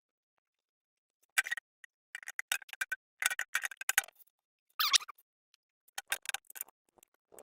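Irregular light clicks and clinks in quick clusters, with short pauses between them: small hard objects such as tools or parts being handled during work on the generator.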